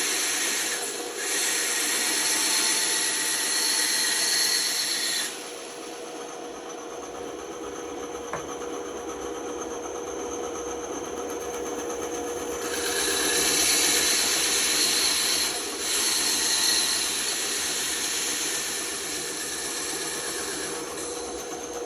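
Band saw running with a steady hum, its blade cutting through wood in two stretches: a cut that ends about five seconds in, and another from about thirteen to seventeen seconds in.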